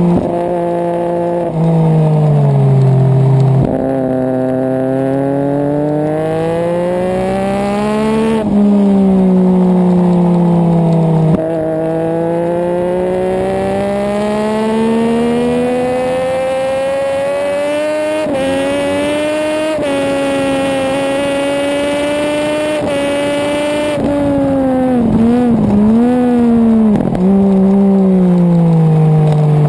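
Sport motorcycle engine heard onboard at track pace. The revs climb and fall through the corners, with sudden jumps in pitch at the gear changes. Near the end the pitch dips quickly several times.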